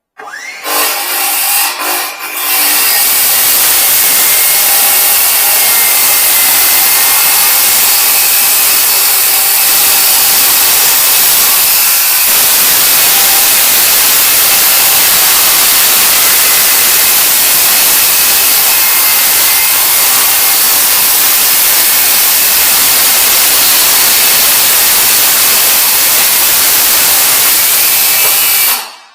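A power tool running steadily under load with a high whine. It has a few brief starts in the first couple of seconds, then runs without a break and stops abruptly near the end.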